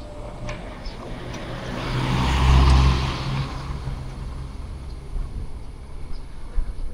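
A road vehicle passing by: engine and tyre noise swell to loudest about two and a half seconds in, then fade away.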